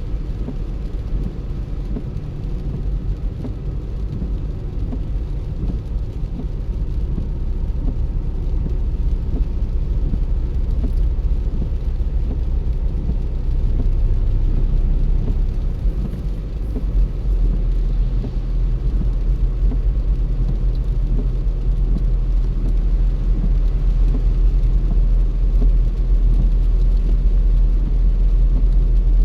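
Car driving along a road: a steady low rumble of engine and tyre noise that grows gradually louder over the first half or so.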